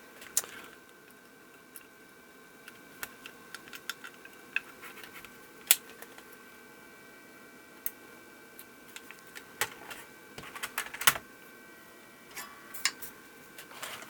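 Irregular small clicks and taps of hand tools and components being worked on a circuit board during a capacitor replacement, with a few sharper snaps, over a faint steady high hum.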